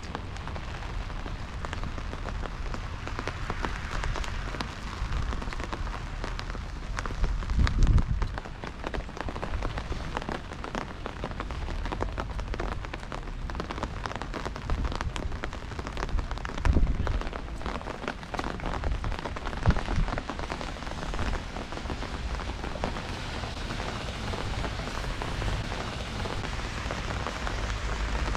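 Steady rain falling, a dense patter of drops. A few short, low thumps stand out about 8, 17 and 20 seconds in.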